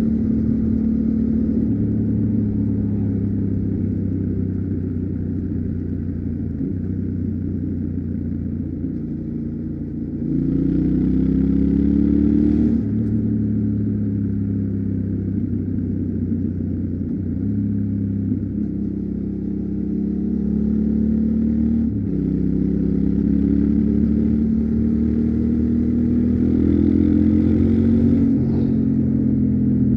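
Yamaha Ténéré 700's parallel-twin engine on stock exhaust running under way, its pitch stepping and rising as the bike accelerates and shifts gear, with a stronger pull up through the revs about ten seconds in and another near the end.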